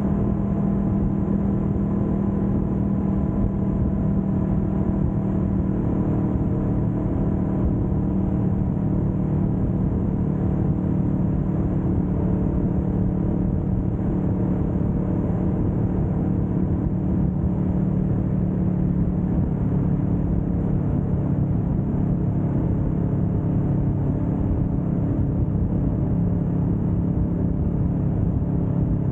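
Kawasaki Vulcan S 650's parallel-twin engine running at a steady highway cruise, its note holding even and unchanging throughout, over a constant rush of road and air noise.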